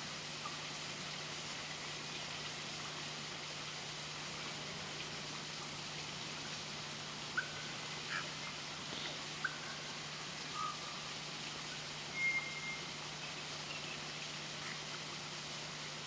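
Steady hiss with a low, even hum, and a handful of brief high bird chirps and short whistles between about seven and thirteen seconds in.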